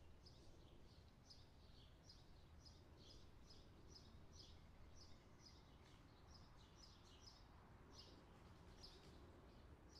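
Faint bird chirping: short high chirps repeated about two to three times a second over a low steady hum.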